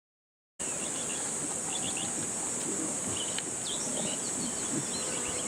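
Steady high-pitched chorus of insects with scattered short bird chirps over it. It cuts in suddenly about half a second in.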